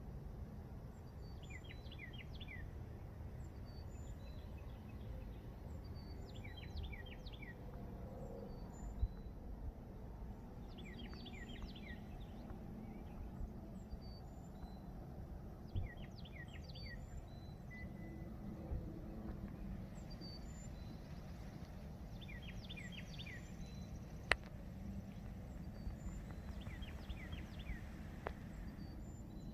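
Outdoor ambience at a lake: a steady low background rumble, with a songbird repeating a short phrase of quick notes every four to five seconds and faint higher chirps. A single sharp click comes near the end.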